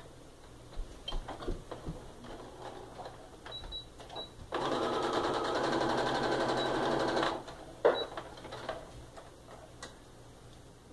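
Electric sewing machine stitching a seam in one steady run of about three seconds, starting about four and a half seconds in, with small clicks of fabric handling before it and one sharp knock just after it stops.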